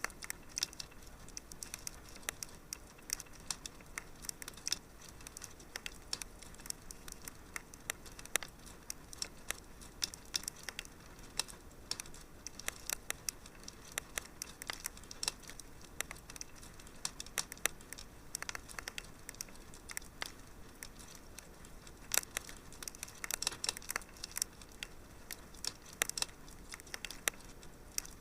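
Fireplace fire crackling: irregular sharp pops and snaps over a soft hiss, coming thicker about three quarters of the way through.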